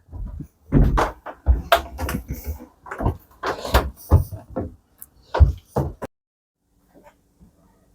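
Irregular knocks and thuds of someone moving back through a yacht's cabin, stopping about six seconds in and leaving only a faint low hum.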